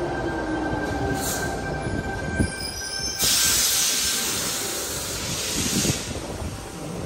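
Double-deck electric passenger train slowing to a stop at the platform, its whine falling in pitch. About three seconds in, a sudden loud hiss of air comes in and fades away over the next few seconds as the train comes to rest.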